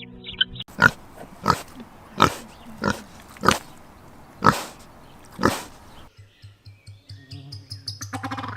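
An animal making a series of about eight short, harsh calls, roughly one every 0.7 seconds. They are followed by a quieter, low pulsing sound near the end.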